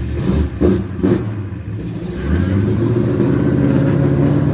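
Square-body Chevy pickup's engine running with a few short knocks early, then revving up about two seconds in and holding at higher revs as the truck pulls under load.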